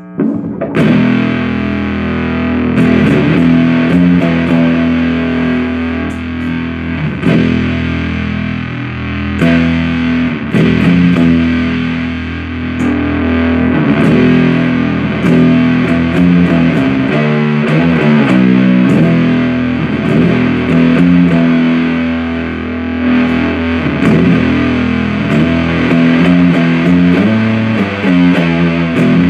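Distorted riffing played through a Supercoolpedals 77 Fuzz Blender, a Big Muff-style fuzz pedal, with its flavor switch down, which the player believes scoops the mids. Thick, sustained fuzz chords change every second or so.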